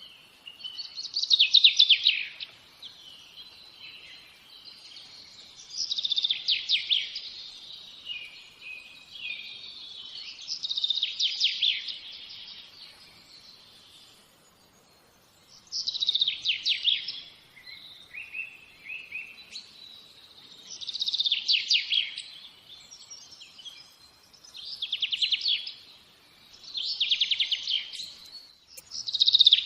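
A songbird singing: short, high, fast-trilled song phrases about a second long, repeated every four to five seconds.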